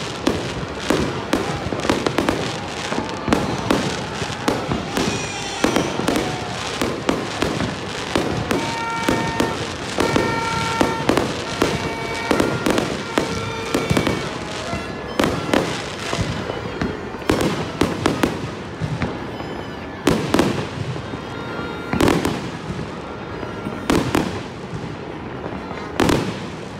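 Aerial fireworks bursting in quick succession, a dense run of bangs and crackling with a few louder reports near the end.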